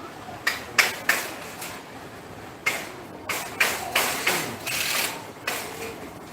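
Metal shopping trolleys clanking and rattling: a series of about eight sharp knocks and clatters, irregularly spaced.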